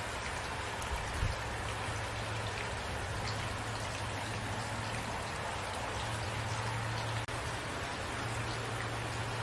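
Steady rain falling, an even hiss of drops hitting surfaces, with one low thump about a second in and a momentary drop-out about seven seconds in.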